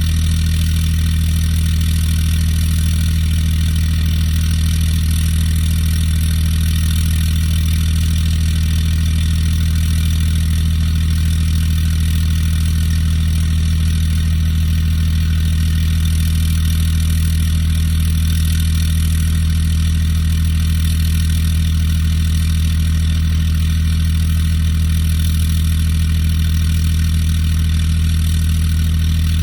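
Cummins diesel engine idling steadily after a cold start, an even low hum with no change in speed.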